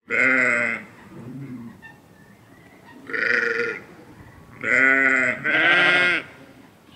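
Sheep bleating: four loud bleats about a second apart in two groups, and one fainter, lower bleat early on.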